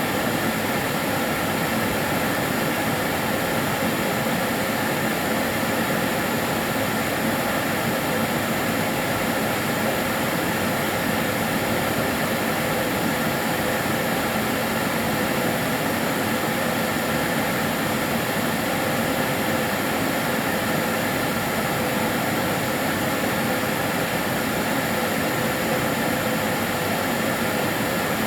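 Karcher DS 6 Premium water-filter vacuum cleaner running steadily: an even rush of air with a faint motor whine held at one pitch.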